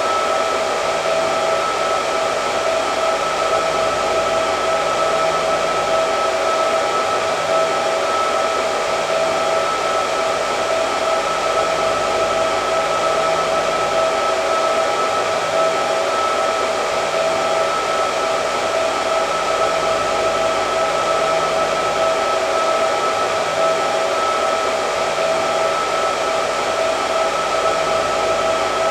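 Hair dryer running continuously: an even rush of blown air with a steady whine.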